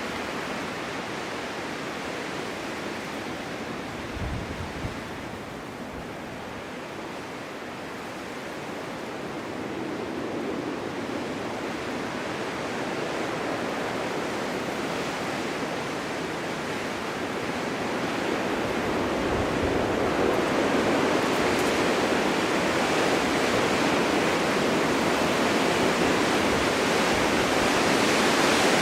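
Snowstorm wind blowing as a steady rushing hiss. It builds to a stronger gust over the second half, with brief low buffets of wind against the microphone.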